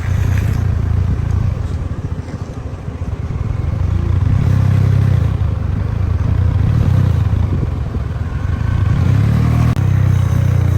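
Vehicle engine running under way, a loud low drone that rises and falls in pitch.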